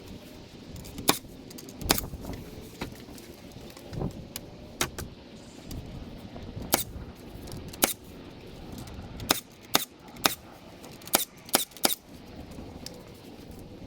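About a dozen sharp knocks and metallic clinks at uneven intervals, bunched more closely in the second half, over a low steady background.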